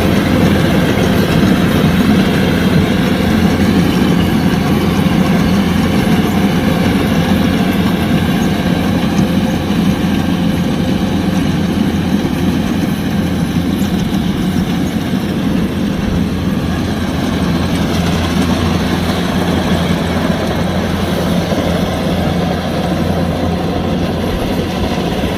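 Kubota DC-105X combine harvester's diesel engine and machinery running steadily at a constant speed, easing off slightly near the end.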